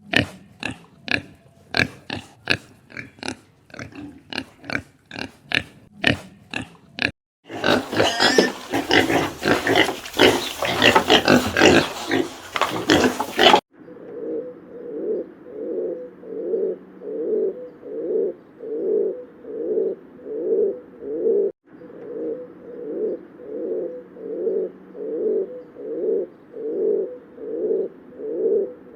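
Farm animals, mostly pigs. First come short separate grunts, about two a second, then a dense stretch of squealing. After a cut, a steady run of low, rhythmic calls follows, about one and a half a second.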